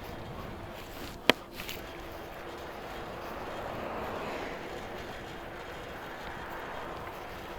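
Steady street and riding noise from an e-bike ride through wet city traffic, with one sharp click a little over a second in, two smaller ticks just after, and a swell of noise in the middle.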